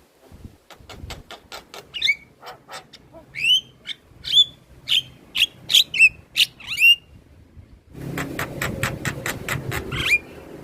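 Javan myna singing: a fast run of dry clicks, then a string of loud, sharp whistled notes, each swooping steeply in pitch, about two a second. Near the end a low steady noise comes in under another rapid run of clicks and a final whistle.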